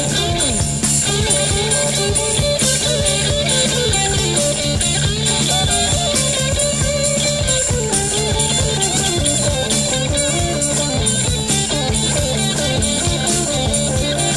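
Heavy rock instrumental: electric guitar playing a wandering melodic line over a steady bass guitar and a drum kit with evenly repeating cymbal strokes.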